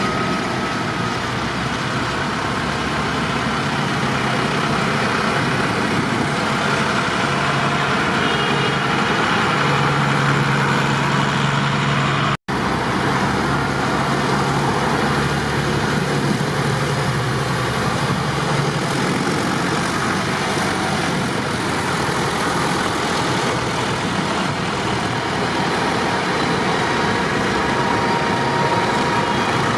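Tractor engines running steadily, a low engine hum over a broad rumble, with a split-second dropout about twelve seconds in.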